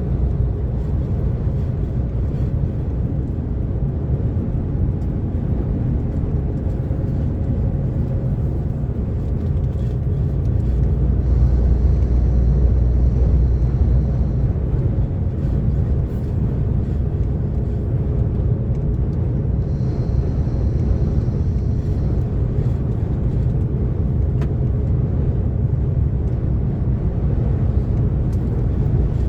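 DAF XF 460 truck's straight-six diesel running steadily at motorway cruising speed, a constant low drone mixed with tyre and road noise. A faint high tone comes in twice for a few seconds.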